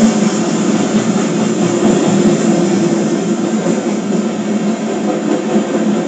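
Loaded coal train's gondola cars rolling past: a steady rumble of steel wheels on the rails.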